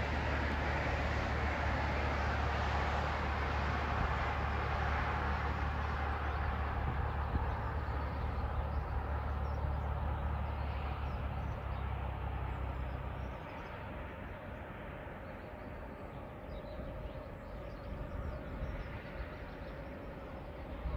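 A train passing on the line, its wide rolling noise slowly fading away. A low steady rumble under it stops abruptly about two-thirds of the way through.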